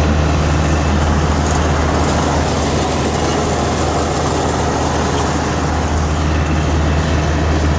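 Kioti DK40 tractor's diesel engine running steadily with an even low hum.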